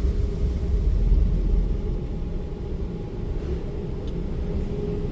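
Mark VII car wash dryer blowers running, heard from inside the car as a steady low rumble. They have come on before the spot-free rinse finished, which the owner takes for a programming issue.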